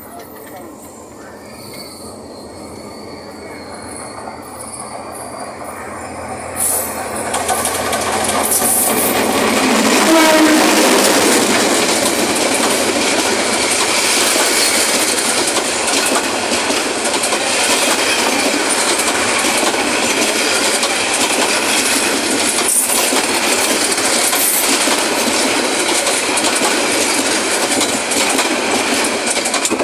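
Bangladeshi passenger train approaching and passing at close range. The sound grows louder over about ten seconds as the train nears, then holds as a steady, loud run of the coaches' wheels over the rails.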